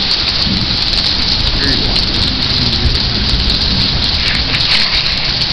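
Heavy rain pouring down steadily and loudly in a downpour.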